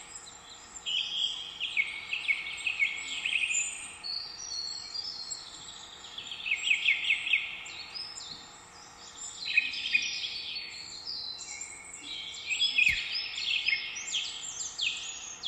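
Several songbirds singing and calling over one another, with quick trilled and chirped phrases coming every few seconds, against a steady background hiss. A single sharp click about thirteen seconds in.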